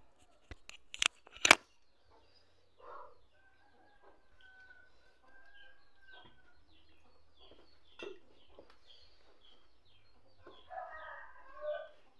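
A few sharp clicks about a second in, then faint bird calls in the background: short repeated chirps, a long held call, and a louder call near the end.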